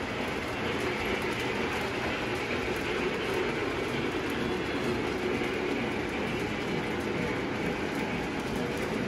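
A train running steadily along its track, a continuous rolling and rail noise that neither rises nor falls.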